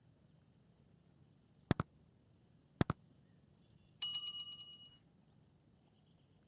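Two quick double clicks, then a small bell rings once with a fast flutter and fades out over about a second.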